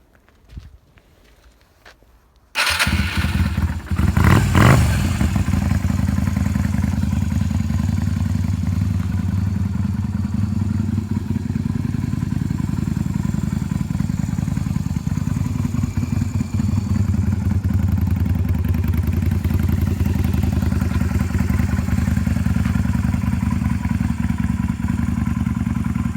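Yamaha Drag Star 125's small V-twin engine: a few faint clicks, then it starts abruptly about two and a half seconds in, revs briefly, and settles into a steady idle.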